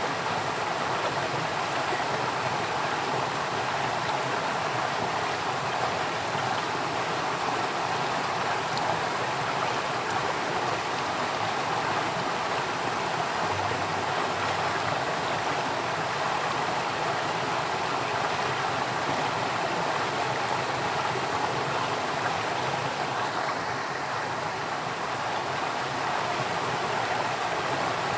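Flowing water running steadily, like a stream: a constant, even rush with no pauses or changes.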